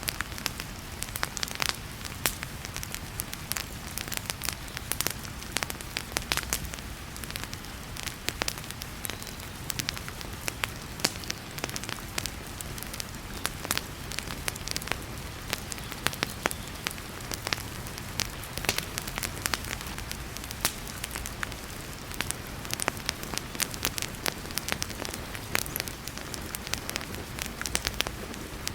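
Wood fire crackling in a fireplace, with frequent irregular pops and snaps over the steady hiss of heavy rain.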